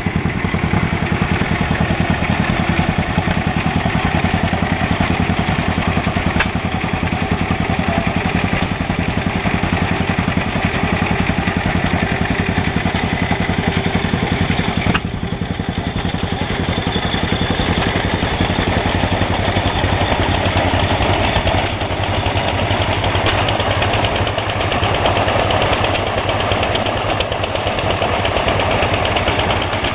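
Antique stationary engines (a John Deere LUC and an IHC LB) running steadily with a rapid, even firing beat, belted to a burr mill and a grain elevator. The sound shifts briefly about halfway through.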